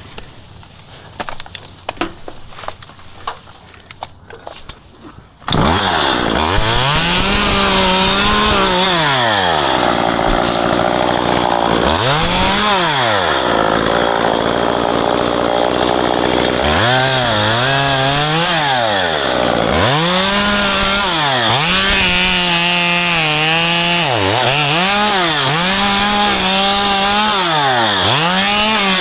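A few light knocks, then a chainsaw starts up about five seconds in and revs up and down again and again, cutting back the branches of a ficus tree.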